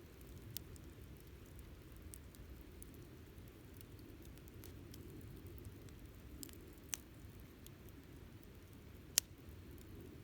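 Wood campfire burning with a low steady flutter and scattered sharp crackles and pops, the loudest pop about nine seconds in.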